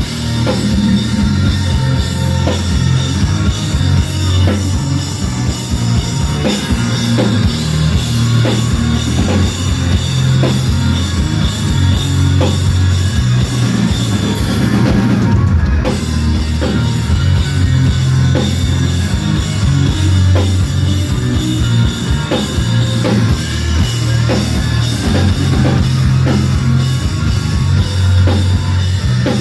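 Live rock band playing loud, with drum kit, electric guitars and bass, in an instrumental passage with no singing.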